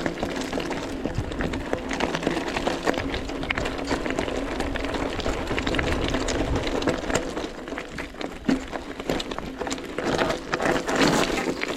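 Mountain bike rolling over a rocky road: tyres crunching on stones and the bike rattling, with many small knocks throughout.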